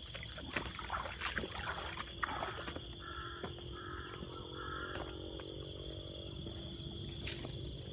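Field crickets chirping in a rapid, steady pulse, with rustling steps through the field in the first couple of seconds and three short animal calls about halfway through.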